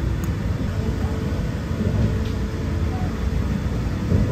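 Cabin noise of a Saphir Odoriko (E261 series) electric train running: a steady low rumble with a faint steady hum.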